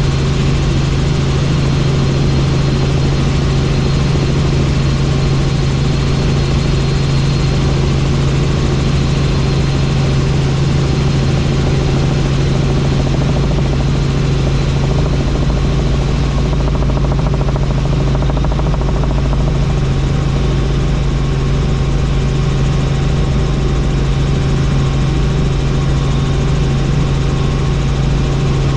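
Helicopter engine and rotors running steadily: a loud, constant low hum over an even rushing noise, with no change in pitch or level.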